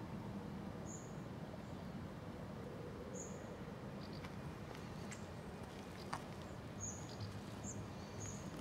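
Outdoor background noise, steady and low, with faint short high bird chirps scattered through it, several near the end, and a single sharp click about six seconds in.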